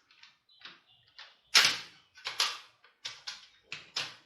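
Toy Kar98k gel blaster's trigger assembly being pushed and fitted into the gun's body, making a series of sharp knocks and clicks, the loudest about one and a half seconds in.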